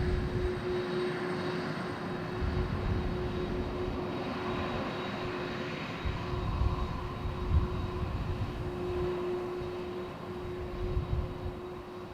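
Airliner jet engines at takeoff power: a steady rushing roar with a held tone over it and an uneven low rumble, slowly fading toward the end.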